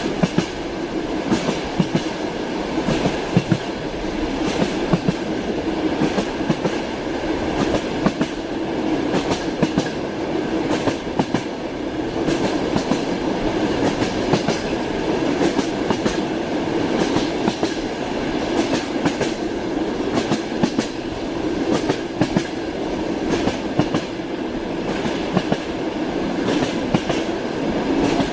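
Train wheels clacking over rail joints with a steady rolling rumble, heard from inside a moving passenger carriage.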